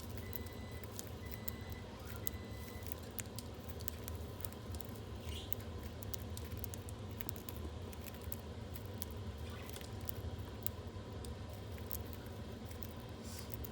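Budgies pecking and nibbling at a treat: a steady scatter of small irregular clicks and taps, with a couple of brief chirps, about five seconds in and near the end, over a low steady hum.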